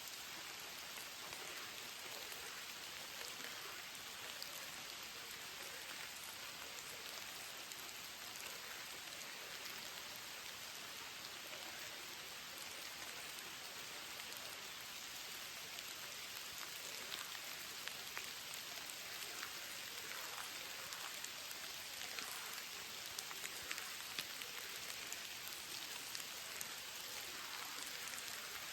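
Steady rain falling, with many individual drop ticks heard over the hiss, growing slightly louder and denser about two thirds of the way through.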